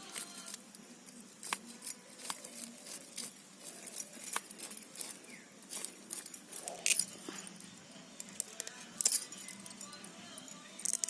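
Irregular clinks and clicks of small hard objects, a few a second.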